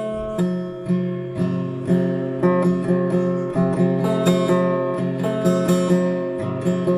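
Solo guitar playing, chords and notes picked in an even rhythm of about two strokes a second, each left to ring on.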